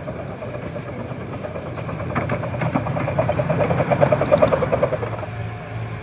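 Romney, Hythe and Dymchurch Railway locomotive running, over a steady low hum, with a fast rhythmic beat that builds to its loudest about four seconds in and then fades away.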